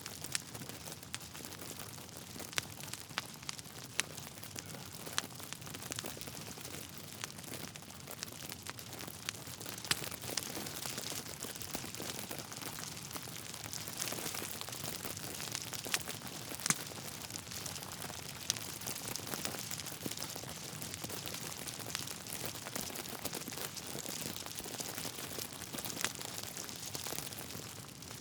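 Wood fire in a fireplace crackling steadily, with many irregular sharp pops from the burning logs; a few pops stand out louder.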